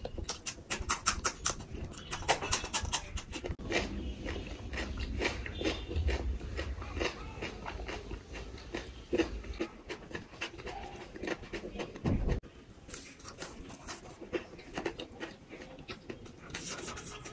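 Close-miked chewing of a crispy fried samosa: crackling crunches of the pastry shell mixed with wet mouth sounds, busiest in the first few seconds and softer near the end.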